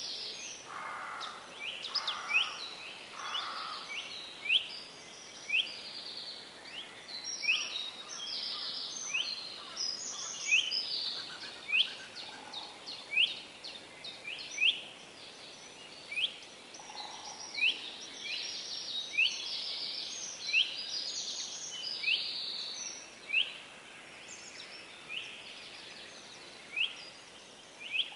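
Small birds chirping continuously over a faint steady hiss: quick, sharp chirps and buzzy trills, with louder chirps about once a second.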